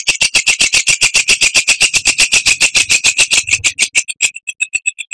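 Oriental magpie-robin (kacer) giving a fast rattling series of sharp, high notes, about ten a second, which thins out and slows near the end.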